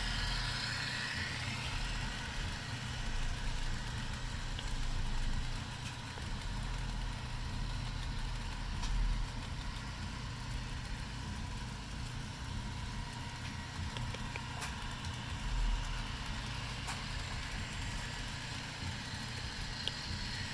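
HO-scale model diesel locomotives' sound decoders playing the steady running sound of a diesel engine through their small onboard speakers, with a few faint clicks.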